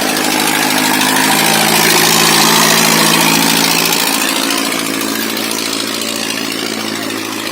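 Farmtrac 6055 tractor's diesel engine running steadily under load while pulling a double harrow, getting louder about two to three seconds in and then easing off a little.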